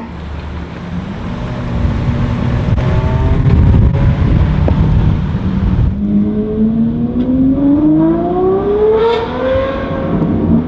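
Ferrari 812 GTS's naturally aspirated V12 through a Novitec Inconel exhaust. A low, rough rumble for about six seconds, then the car accelerates hard, its engine note climbing steadily in pitch for about three seconds before levelling off near the end.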